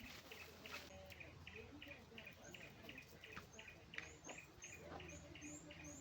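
Faint chirping of small birds: a quick chirp repeated about three to four times a second, joined from about two seconds in by short, higher rising calls.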